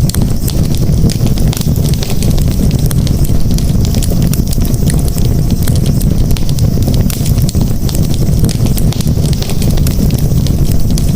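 Campfire burning steadily, with a continuous low rumble of flames and dense small crackles and pops.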